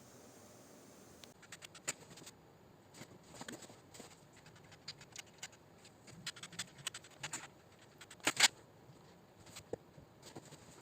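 Scattered small clicks, taps and scratches of hand tools being handled and set in place, with a sharper click about eight seconds in.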